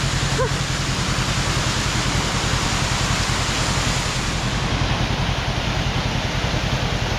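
Waterfall rushing in full flood, a loud steady roar of falling water, with a low steady engine hum underneath.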